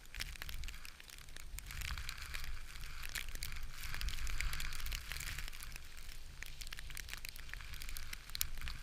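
Strong wind buffeting the microphone in a low, steady rumble, with dense irregular crackling and snapping over it.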